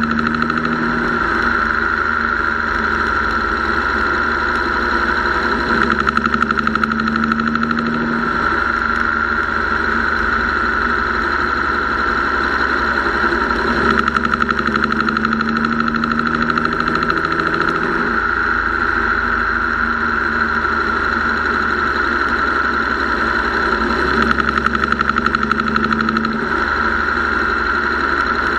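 Engine running with a fast, steady ticking from the top end; four times, for a second or two each, a low hum comes in and the ticking gets a little louder. The ticking is the noise the owner has chased from the lifters and rockers to the mechanical fuel pump, and which he finally takes for a tired or weak valve spring.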